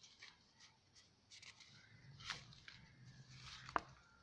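Faint rustling of paper journal pages being handled and turned, with two sharp light taps, one about two seconds in and one near the end.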